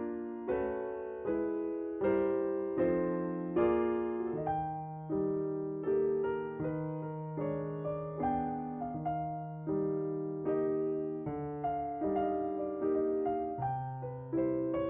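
Background music: a slow, gentle piano piece, single notes and chords struck one after another and left to fade.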